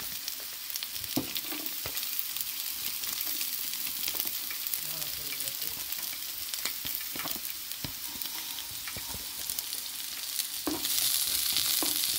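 Sliced ginger and chopped garlic sizzling in hot oil in a frying pan, with scattered light clicks. About eleven seconds in, the sizzle grows louder as the pan is stirred with a wooden spatula.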